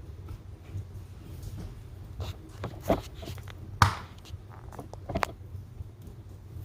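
Wood fire burning in a fireplace, with irregular crackles and pops over a low steady rumble; the sharpest pop comes about four seconds in.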